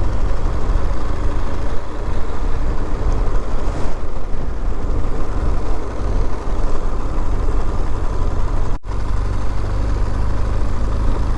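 Motorcycle riding at low speed, its 2018 BMW R1200GS boxer-twin engine running steadily under wind and road noise, as heard through a microphone inside the rider's helmet. The sound cuts out for an instant about nine seconds in.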